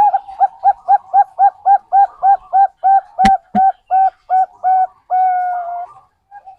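Zebra dove (perkutut bangkok) song: a quick even run of short cooing notes, about four a second, ending in one long drawn-out coo. Two sharp clicks come partway through.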